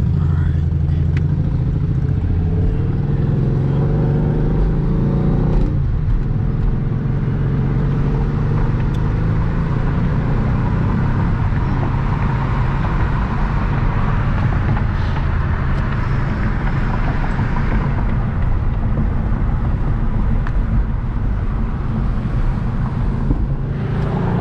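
Hyundai Genesis Coupe's 3.8-litre V6 accelerating from a stop, its engine note rising for the first few seconds and dropping sharply about six seconds in. It then runs steadily at cruising speed under road noise.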